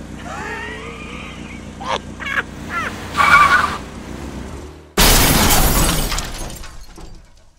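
A car engine idles, a short screech sounds about three seconds in, then a sudden loud car crash comes at about five seconds and dies away over two seconds.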